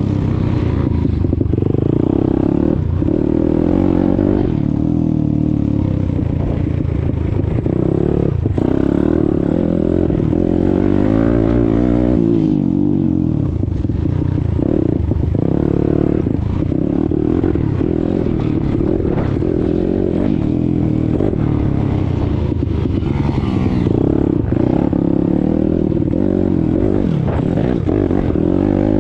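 YCF 190 Daytona Bigy pit bike's single-cylinder four-stroke engine running under way, its pitch rising and falling over and over as the throttle is opened and closed through the ride.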